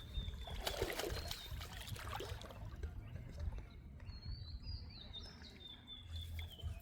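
A small bird chirping: a run of thin, high calls in the second half, over a low outdoor rumble, with rough crackling and splash-like noises in the first couple of seconds.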